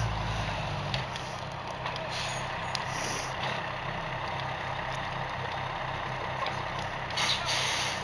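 A heavy engine idling steadily, with a brief hiss about seven seconds in.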